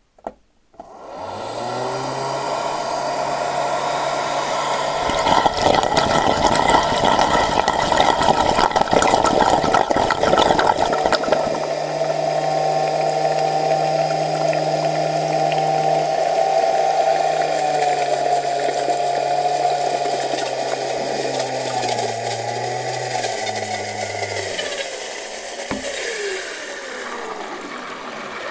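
Cordless stick vacuum motor starting up and running with a steady whine. Dense water splashing and gurgling covers it from about five seconds in until about eleven seconds. Near the end the whine wavers and glides down in pitch as the motor winds down.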